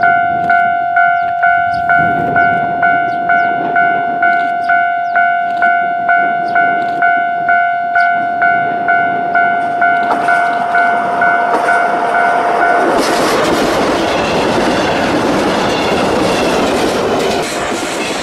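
A level-crossing bell ringing steadily, about three strokes a second, as a DE15 diesel-hydraulic locomotive hauling ballast hopper wagons draws near. About two-thirds of the way through, the train's loud passing noise of engine and wheels clattering over the rail joints drowns the bell.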